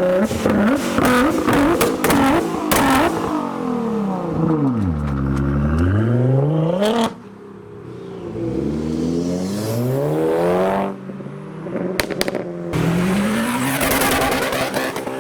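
Nissan GT-R engine being revved hard again and again, its pitch climbing and falling, with sharp pops and crackles from the exhaust. The pops come mainly in the first few seconds and again near the end, and the engine briefly drops away twice in the middle.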